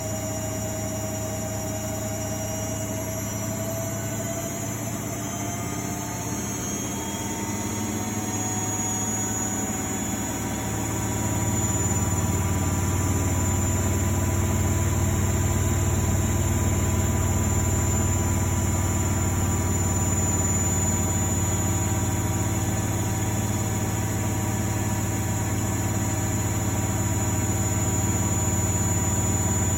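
Miele Novotronic W828 washing machine speeding up into a spin: the motor's whine rises slowly in pitch, then about eleven seconds in the machine gets louder with a deep steady hum as the drum runs at spin speed.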